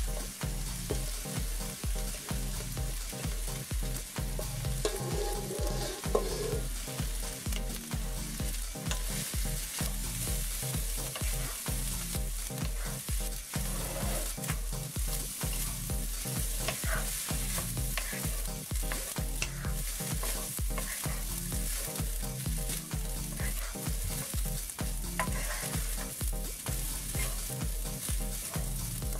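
Cooked rice and diced vegetables sizzling in a hot frying pan while a wooden spatula stirs and scrapes them through in steady repeated strokes.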